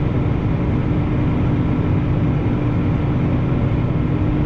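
Semi truck's diesel engine running at low speed, a steady low drone with a constant hum over it, heard from inside the cab.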